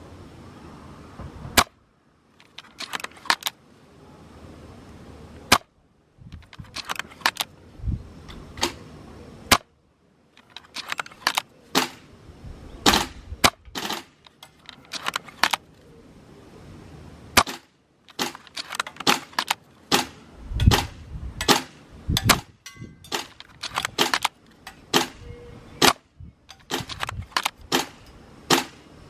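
Tokyo Marui VSR-ONE spring-powered airsoft bolt-action rifle being shot and its bolt cycled between shots: a long string of sharp clicks and snaps, some loud and some light, at uneven spacing.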